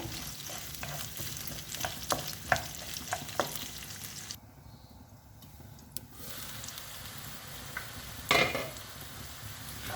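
Small onions and garlic cloves sizzling in gingelly oil in a pan, stirred with a spatula that knocks against the pan several times. The sizzle drops for about a second and a half midway, and there is a brief louder scrape near the end.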